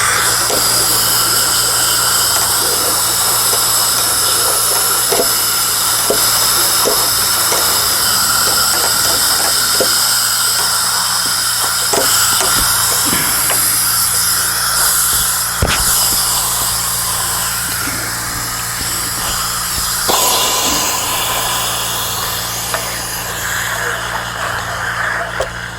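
Compressed air hissing through a long air line into the bottom of a tank-type water heater full of vinegar, bubbling and sloshing the liquid to stir loose the lime scale, over a steady low hum. Small irregular pops and clicks run through it, and it eases off a little near the end.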